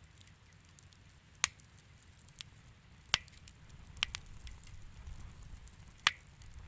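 Fire in a fireplace crackling, with four sharp pops standing out about a second and a half in, about three seconds in, about four seconds in and near the end, over a soft low rumble and fainter ticks.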